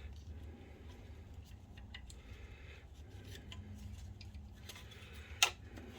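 Light plastic clicks and taps as a projector's lamp basket is handled and fitted back into its housing, with one sharper click about five and a half seconds in.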